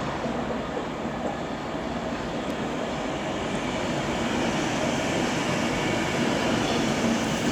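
Class 390 Pendolino electric train pulling into the terminus platform: a steady rumble with a low hum, growing slowly louder.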